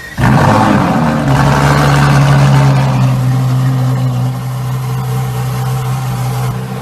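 Ferrari LaFerrari's V12 engine on a cold start: it fires suddenly with a loud blip a moment in, then settles into a steady, high cold idle.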